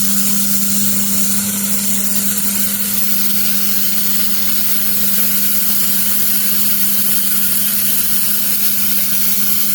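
Hand-held laser welder with wire feed in operation: a steady hiss from the shielding gas and weld, over a steady hum from the machine.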